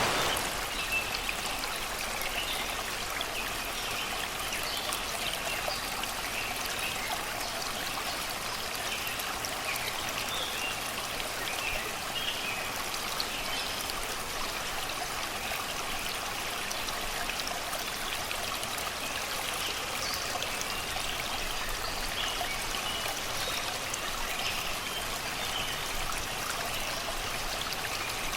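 Shallow river babbling steadily over rocks and stones, with forest birds singing in short chirps throughout.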